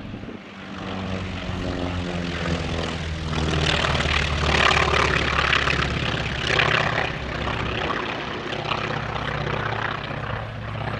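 A piston-engined propeller warbird flying past. The engine grows louder to a peak about four to seven seconds in, its pitch dropping slightly as it passes, then eases off.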